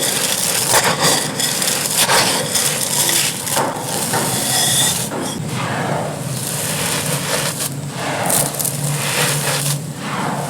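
Dry, gritty clay crumbling: dense crunching, crackling and scraping with many sharp little clicks.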